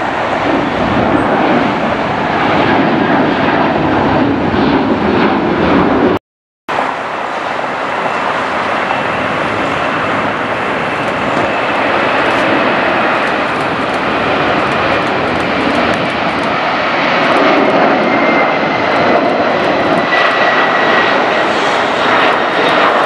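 Jet airliner engines, loud and steady, with a faint high whine that slowly falls in pitch in the second half. The sound cuts out for a moment about six seconds in.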